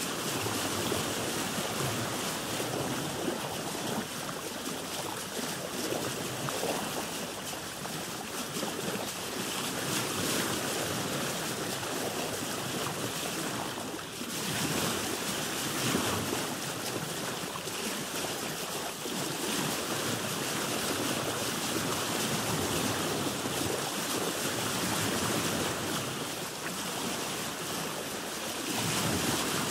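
Sea waves washing against a boat: a continuous rushing wash that swells and eases, dipping briefly about halfway.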